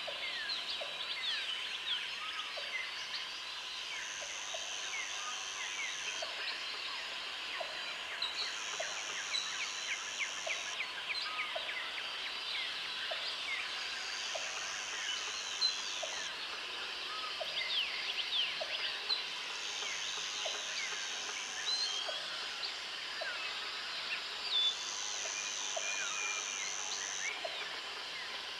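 Tropical jungle ambience: many birds chirping and calling together over a chorus of insects and crickets. A high insect buzz comes in bouts of about two seconds, roughly every five seconds, and a soft regular tick sounds about every second and a half.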